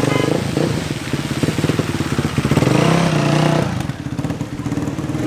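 Dirt bike engine running, revving up a little past halfway through and then easing off.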